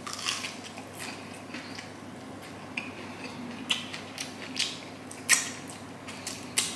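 A person chewing and biting pan-fried sardine by mouth, with scattered short wet smacks and crunches, the louder ones about four to five and a half seconds in.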